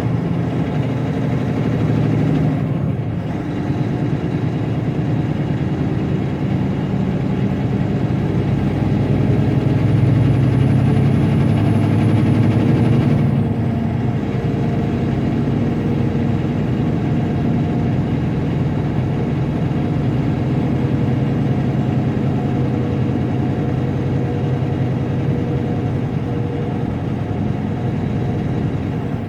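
Semi truck's diesel engine running steadily on the highway, heard from inside the cab. It swells louder for a few seconds, then eases back about halfway through.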